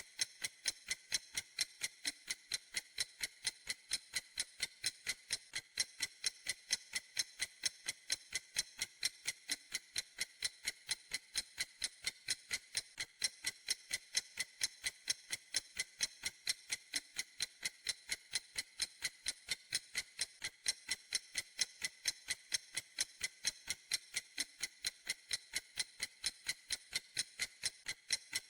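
Clock ticking in a steady, even rhythm of sharp, high-pitched ticks.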